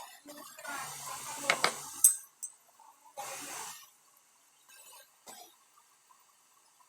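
Small hard clinks and taps of metal and glass-like objects, with one sharp click about two seconds in that is the loudest, then a short rushing noise and a few faint ticks.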